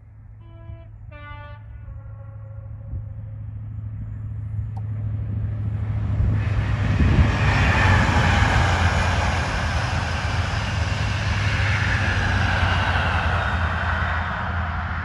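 A CrossCountry Class 43 HST sounds its two-tone horn, high then low, about half a second in. The train then approaches and passes at speed: the noise of its diesel power car and wheels on the rails builds steadily, peaks around eight seconds in and stays loud as the coaches run by.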